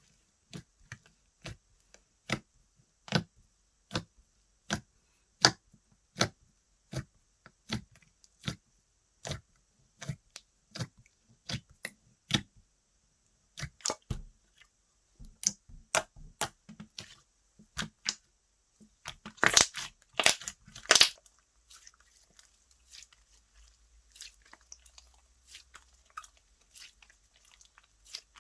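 Slime being pressed and worked by hand, giving sharp wet clicks and pops of trapped air at a steady beat of about one every 0.8 s. About halfway through it turns into denser crackling, loudest about two-thirds of the way in, then fades to faint crackles.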